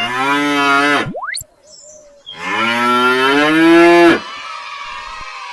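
Cow mooing twice: a call of about a second, then a longer one of about two seconds. A short rising whistle-like glide comes between them, and a steady ringing chime follows from about four seconds in.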